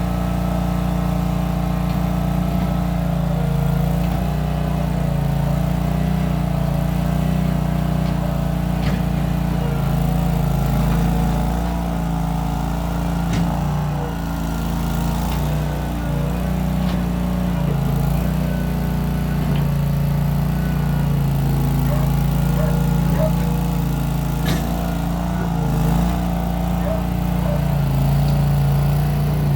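Case 1816 skid steer's engine running steadily while working, its pitch dipping and recovering again and again as the load changes, through a homemade exhaust with small round mufflers. A few faint sharp clicks sound over it.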